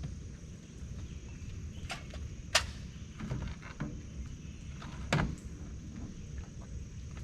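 Campfire burning with a low steady rumble and scattered sharp pops and cracks of burning wood. The loudest cracks come about two and a half and five seconds in.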